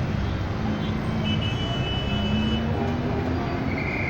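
City street traffic: a steady, continuous hum of passing cars, with a few faint held tones over it.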